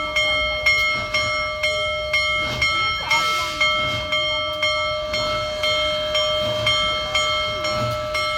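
Steam locomotive bell ringing steadily, about two strikes a second, each strike ringing on. There is a brief hiss about three seconds in.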